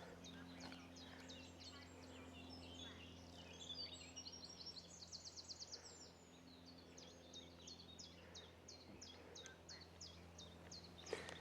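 Faint songbird chorus: several small birds chirping and singing, with a fast trill about halfway through and a run of evenly spaced repeated notes after it. A faint steady low hum lies underneath.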